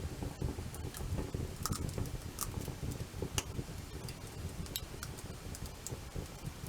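Wood fire crackling: irregular sharp pops and ticks over a low steady rumble.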